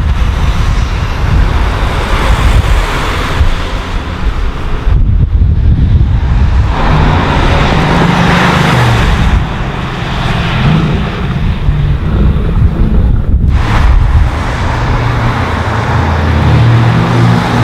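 Loud car engines driving past and accelerating, several cars in turn, their engine notes rising and shifting. The sound breaks off briefly about five seconds in and again about thirteen seconds in.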